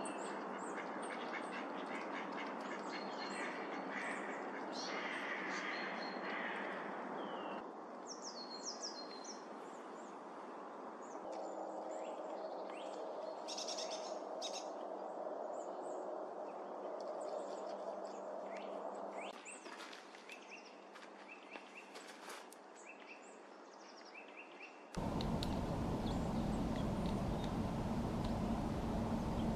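Short bird calls and chirps over steady outdoor background noise, changing abruptly at several cuts. The last few seconds turn into a louder, even rush of noise.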